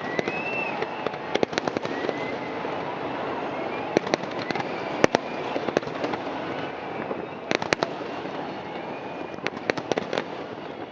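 Fireworks going off in clusters of sharp bangs and crackles, a few seconds apart, over a steady background hiss, with a few short whistles near the start.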